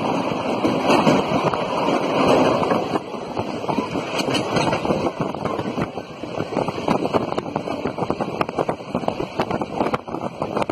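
Passenger train coach running at speed, heard from its open doorway: a steady rush of wheel and track noise with many sharp, irregular clicks and rattles from the wheels on the rails, and wind rushing over the microphone.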